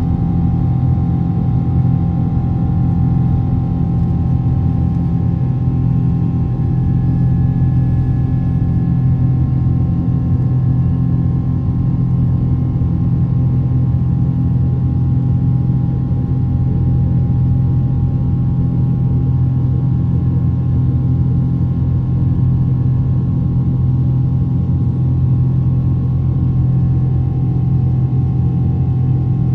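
Steady drone of a Boeing 777's jet engines heard inside the passenger cabin, a constant low rumble with several steady humming tones that hold unchanged throughout.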